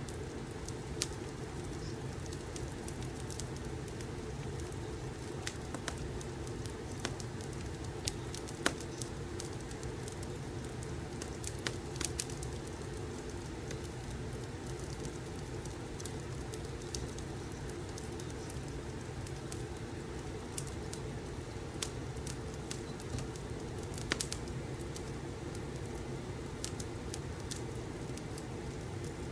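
Wood fire crackling in a fireplace: a steady low rush with sharp, irregular pops every second or few seconds.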